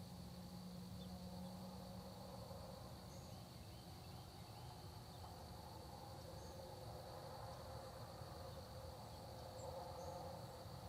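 Faint, steady high-pitched trilling of crickets in a continuous chorus, with a few brief, faint bird chirps over a low background rumble.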